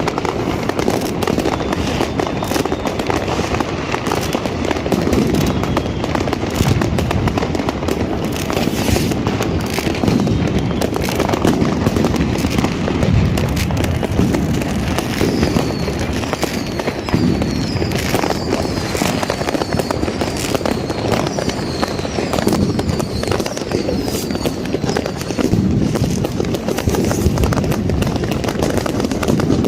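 New Year's fireworks and firecrackers going off densely: a continuous crackling and banging with no pause. About halfway through, a run of short high whistles joins in.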